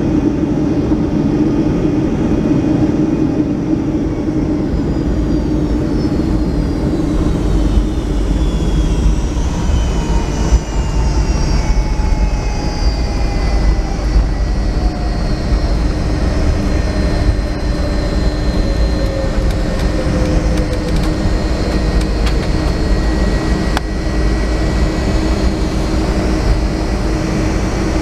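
Boeing 757-200's Rolls-Royce RB211 jet engines heard from inside the cabin over a heavy, steady rumble. Several whines fall in pitch as the engines spool down, then settle into a steady hum.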